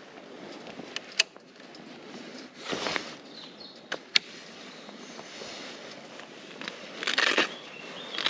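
Footsteps crunching on a loose dirt-and-gravel track, two short stretches about three and seven seconds in, with a couple of sharp clicks and faint bird chirps over a steady outdoor hiss; no engine is running.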